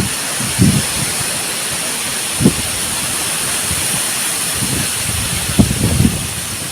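Strong storm wind blowing: a steady rushing hiss, with gusts buffeting the microphone in low bumps now and then.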